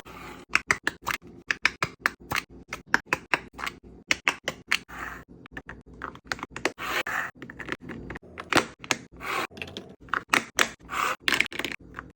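Plastic snack containers and packaging being handled and set into a mini fridge: a quick, uneven run of sharp clicks and taps, with short bursts of rustling and crinkling in between.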